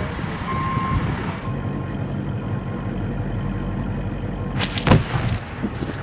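A vehicle engine running steadily, with a reversing beeper sounding through the first second. About five seconds in comes a sharp, loud crack of a few closely spaced strikes: the demolition charges going off at the base of the radio tower.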